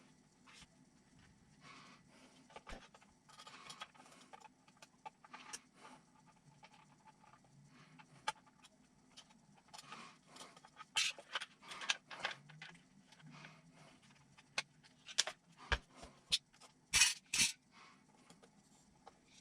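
Small parts and tools being handled while an RC truck kit is assembled: scattered light clicks, taps and scrapes, with sharper knocks about eleven to twelve seconds in and a close pair near the end.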